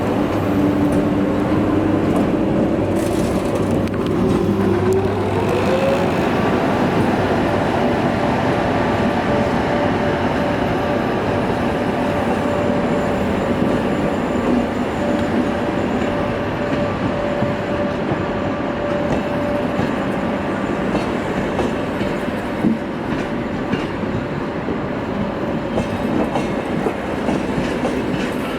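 Electric train running on the rails with wheel clickety-clack and steady rolling noise. A whine rises in pitch about four to six seconds in, then holds steady.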